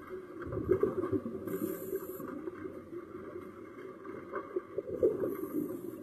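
Underwater sound of a scuba diver breathing through a regulator: a bubbling rumble of exhaled air, then a short hiss of inhalation, twice, over a dull steady hum.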